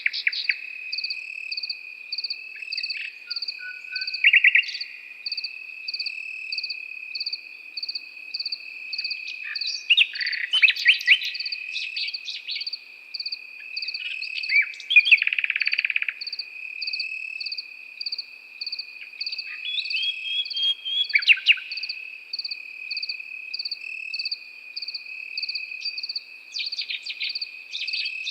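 Nightingale singing in short, varied phrases of rapid trills and whistles, several times, over crickets: one steady, unbroken trill and another chirping in regular pulses. The bird phrases are loudest around ten to twelve seconds in, again at about fifteen seconds, and near twenty-one seconds.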